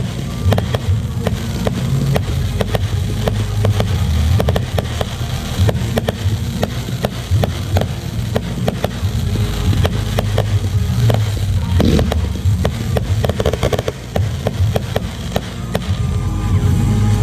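Display fireworks going off in quick succession: a rapid, continuous run of sharp bangs and crackles over a heavy low rumble.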